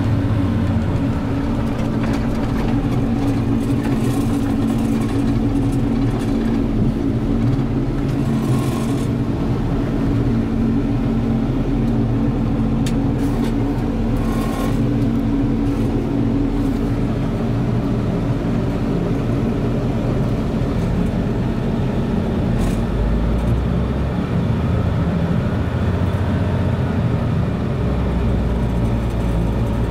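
Diesel engine of a Sterling L7500 truck running steadily, with a shift in its low hum about three-quarters of the way through.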